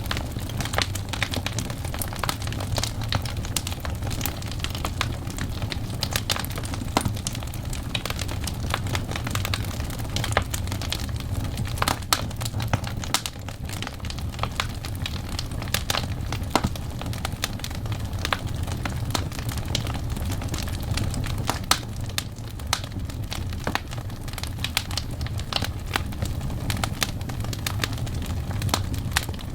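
Wood fire burning logs, with dense irregular crackles and pops over a steady low rumble of the flames.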